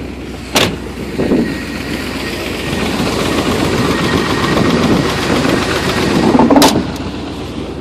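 1986 Chevrolet Silverado's engine idling just after a cold start, heard from inside the cab, with a hiss that grows louder over a few seconds. Two sharp knocks cut through it, one about half a second in and one near the end.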